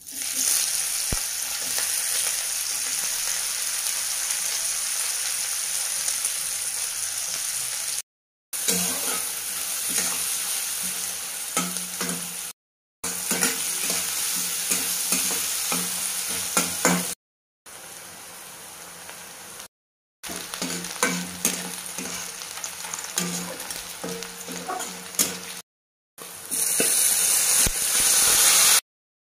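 Food frying in hot oil in an aluminium kadai: a steady sizzle as whole spices and then chopped onions fry, with a metal spatula clicking and scraping against the pan as they are stirred. The sizzle grows louder near the end as chopped tomatoes go into the pan. The sound cuts to silence briefly several times.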